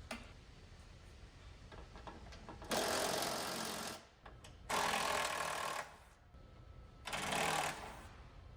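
Handheld cordless power tool run in three short bursts of about a second each, undoing the fasteners that hold a car's tail light in place.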